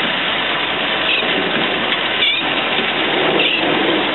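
An off-road 4WD's engine running, a steady loud noisy roar, with three brief high-pitched sounds over it about a second apart.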